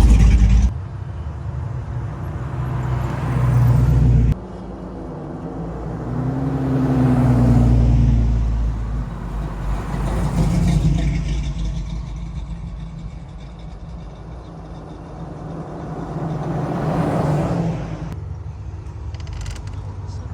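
Car engines running as vehicles pass one after another, the low engine rumble swelling and fading several times.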